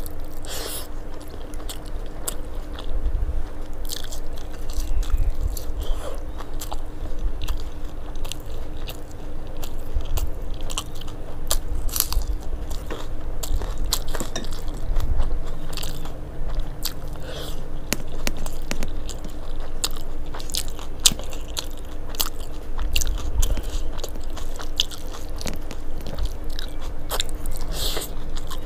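Close-miked chewing and biting of rice and fried long beans eaten by hand, with many irregular crisp clicks and crunches and soft mouth thumps. A faint steady hum runs underneath.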